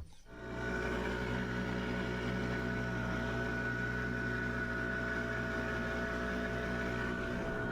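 A boat motor comes on within the first second and runs at a steady speed, giving an even hum with a high whine over it.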